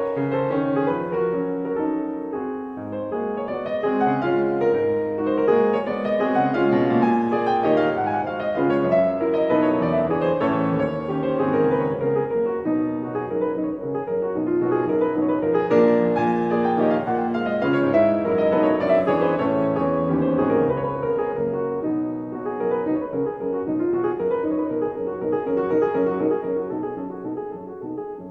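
Background piano music, slow and melodic, fading down near the end.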